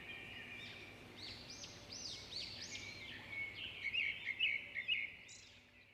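Several birds chirping and calling over a steady high background chorus, with a burst of quick, loud chirps about four seconds in; the whole soundscape fades out near the end.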